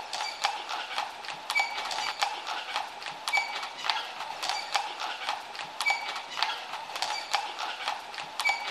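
A horse's hooves clip-clopping in a steady trotting rhythm.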